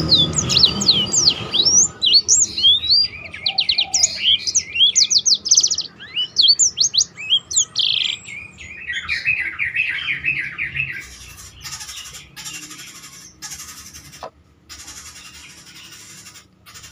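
A blackthroat (black-throated canary) singing a fast, varied song of high chirps, sweeping notes and rattling trills, ending in a lower buzzy trill about eleven seconds in; after that the song stops and only faint noise remains.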